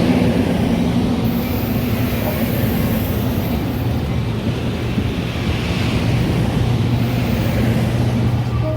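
Metra commuter train running: a loud, steady rumble with a low, even drone underneath, cutting off abruptly near the end.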